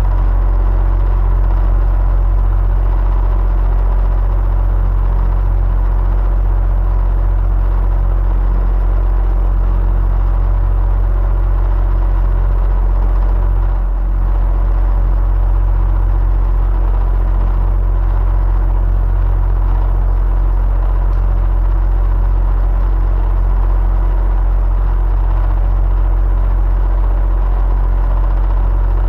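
Electric fan running steadily: a deep, even hum with a faint whirring hiss and thin steady tones above it.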